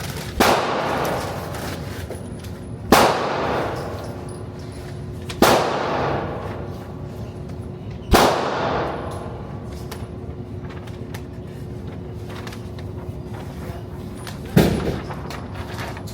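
Five single gunshots in a reverberant indoor range, each with a ringing tail: four about two and a half seconds apart, then a pause before the fifth near the end.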